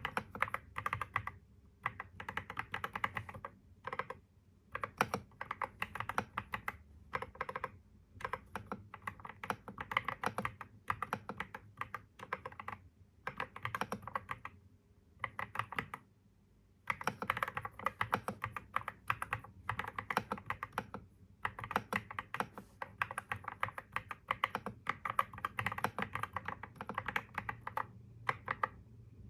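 Typing on a computer keyboard: quick runs of keystrokes broken by short pauses, the longest about sixteen seconds in.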